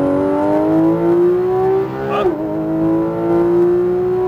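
Porsche GT3 RS's naturally aspirated flat-six at full throttle, heard from inside the cabin. The pitch climbs steadily, drops sharply with an upshift about two seconds in, then climbs again as the car keeps accelerating.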